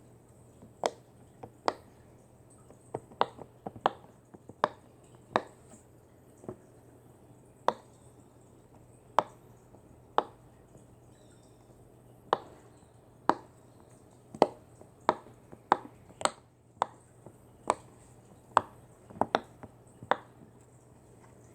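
A series of sharp, short taps at an uneven pace, roughly one or two a second and sometimes in quick pairs, over a faint steady hum.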